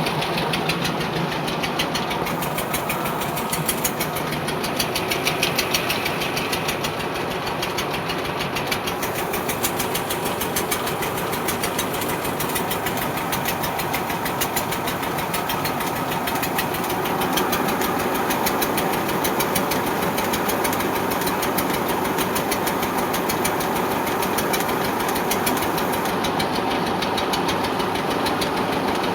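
Tractor's diesel engine running steadily, with a rapid even knocking beat of its firing strokes throughout.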